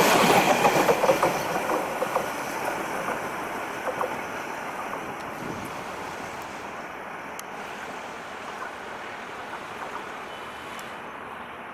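Meter-gauge passenger train's coaches rolling past close by, wheels clicking over the rail joints, then the rumble fades steadily as the train pulls away.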